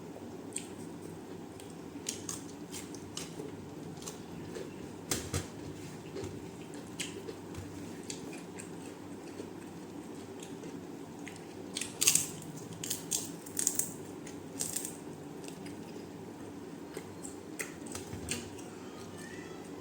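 Eating sounds: chewing and mouth clicks with scattered short crunches and clatters, a busier run of them a little past the middle, over a steady low background hum.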